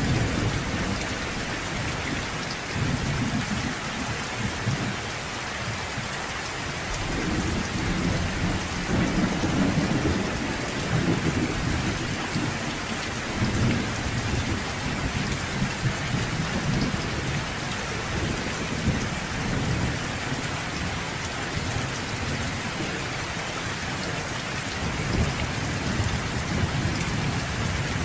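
Steady heavy rain falling, with low rolling thunder rumbling in slow swells underneath.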